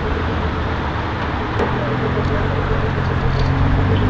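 Car engine running at low revs with a steady hum that gets stronger about halfway through, over a steady background din, with one sharp click in the middle.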